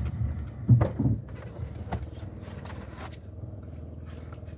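A car's engine running steadily at low speed, with a single knock about a second in. A thin, high tone sounds briefly at the start.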